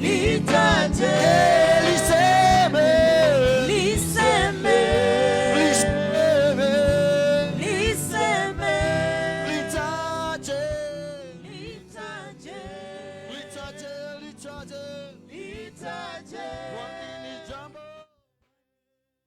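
Swahili gospel song with singing voices and percussion. It drops in level about halfway through and cuts off abruptly near the end.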